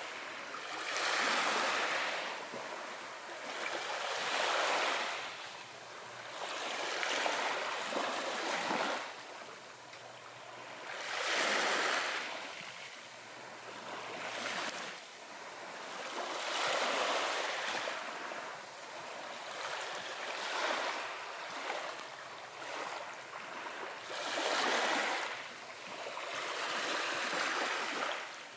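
Ocean waves washing in, one after another: each comes as a swelling hiss that fades, about every three seconds.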